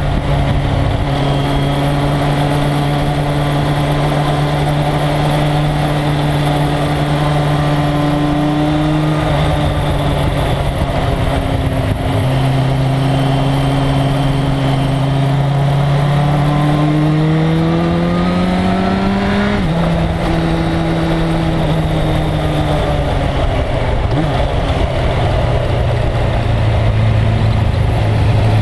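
1997 Suzuki GSX-R1100's inline-four engine running hard at held revs, with wind noise. The revs climb steadily for a few seconds past the middle, then drop sharply on an upshift.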